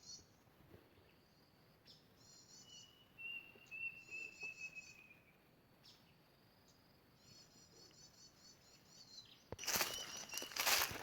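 Small birds chirping in short, rapid high trills several times, with one long thin whistled note about three seconds in. Loud rustling starts near the end.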